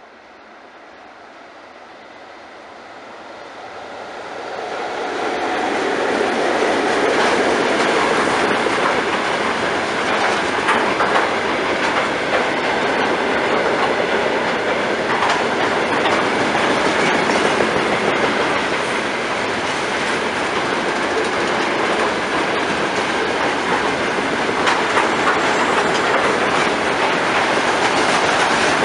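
Freight train of tank cars, hauled by a VL80S electric locomotive, approaching and then rolling past close by. It grows louder over the first five seconds, then holds a steady rumble of wheels with a clickety-clack over the rail joints.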